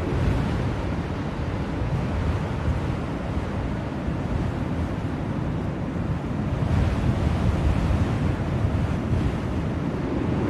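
Blizzard wind blowing steadily in a deep, rushing rumble, swelling into a stronger gust about two-thirds of the way through.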